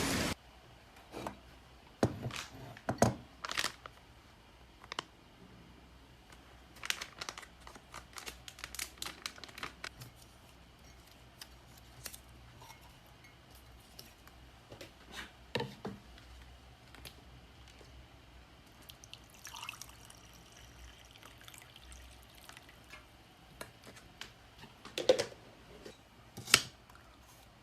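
Scattered clicks, taps and knocks of objects being handled in a small room, irregular and sparse, with a few sharper knocks near the end.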